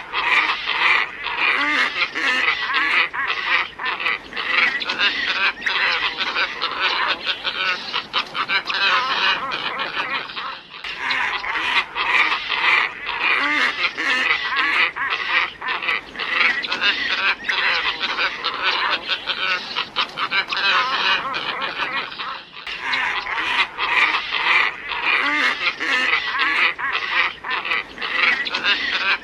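Glossy ibis flock calling: many dense, overlapping hoarse honking calls, played as a lure-call recording that breaks briefly and starts over about every twelve seconds.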